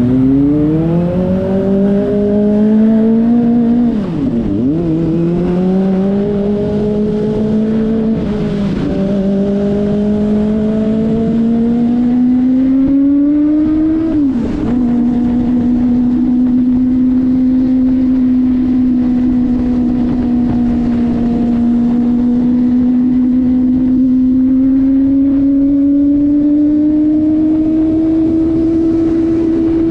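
Kawasaki ZX-25RR's 250 cc inline-four engine pulling through the gears: the pitch climbs, then drops sharply at three upshifts about four, eight and fourteen seconds in, before settling into a steady cruise that rises slowly near the end, with wind rush underneath.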